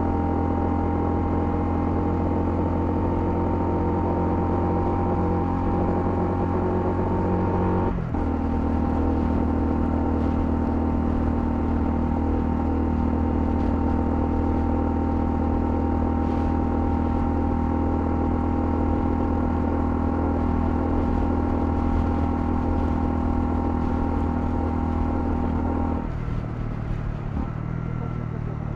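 Honda CL250's single-cylinder engine running steadily under way. About eight seconds in the note breaks briefly and settles at a new pitch, a gear change. Near the end the engine note drops and gets quieter.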